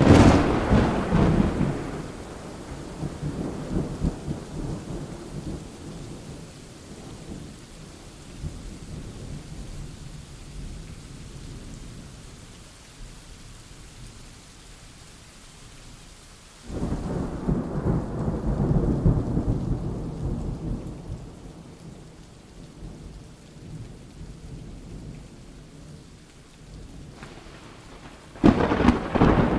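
Rainstorm with steady rain and three rolls of thunder. A sharp crack and rumble at the start fades over several seconds, a second rumble begins suddenly about halfway and dies away, and a third crack comes near the end.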